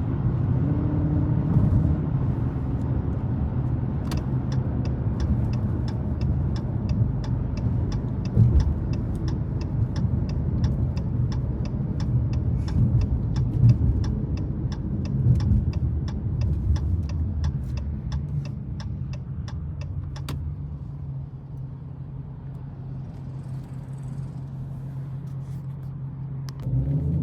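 Dodge Challenger V8 running at low speed with a steady low rumble, heard from the driver's seat, with a turn signal ticking about three times a second for most of the first twenty seconds. About twenty seconds in the engine note drops and settles into a quieter, steadier hum.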